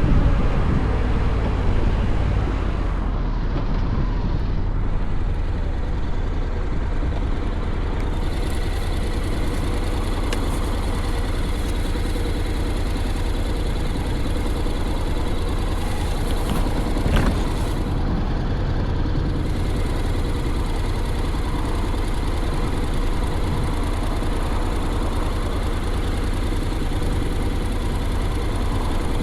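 Honda X-ADV's 745 cc parallel-twin engine idling steadily. Wind noise on the microphone dies away in the first couple of seconds.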